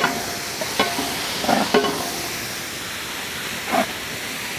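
Chopped tomatoes hitting hot oil and onions in a large uruli pot over a wood fire, sizzling steadily. A few short metallic clinks and scrapes come from the steel plate and the spatula against the pot.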